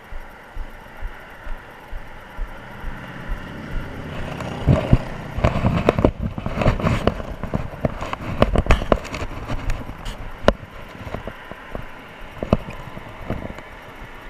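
A motor vehicle approaching with a rising engine hum, then passing very close by with loud, rough road noise and sharp knocks for several seconds before fading.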